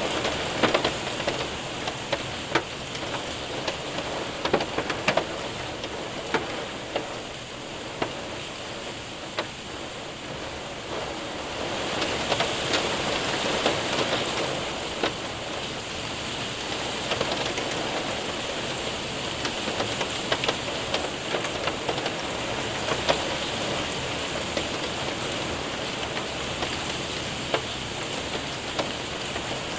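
Hail and rain hitting a window and roof: a steady hiss of rain with scattered sharp ticks of hailstones striking, the hiss swelling a little about twelve seconds in.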